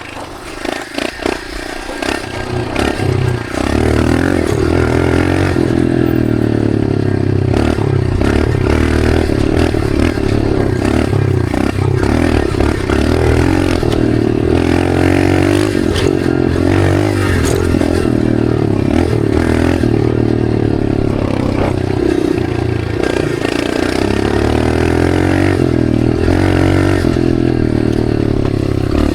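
Dirt bike engine being ridden hard, pitch rising and falling with throttle and gear changes; it runs softer for the first few seconds, then opens up about three to four seconds in and stays loud.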